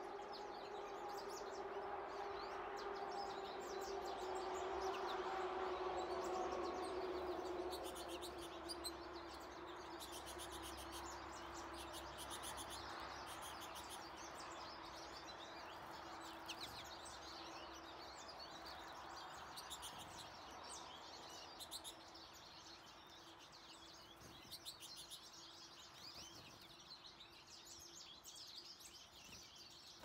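Small songbirds chirping and twittering around a seed feeder, with short high calls coming thick and fast. Beneath them runs a faint low hum that slowly falls in pitch and is loudest in the first several seconds.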